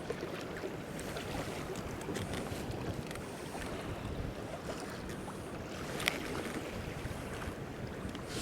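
Water lapping against a kayak's hull and wind on the microphone as the kayak drifts in the swell, with one sharp click about six seconds in.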